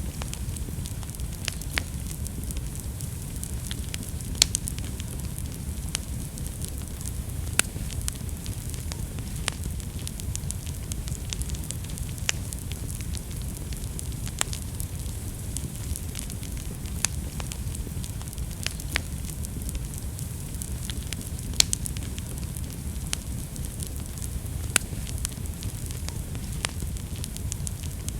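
Wood fire burning in a fireplace: a steady low rumble of flame with sharp, irregular crackles and pops, roughly one every second or two.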